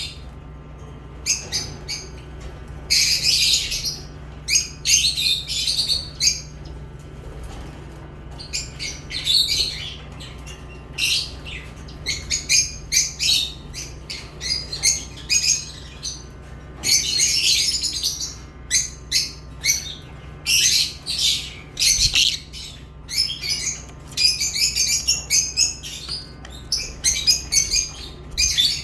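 Lovebirds chirping in many short, high-pitched bursts that come in irregular clusters with brief gaps between them, over a steady low hum.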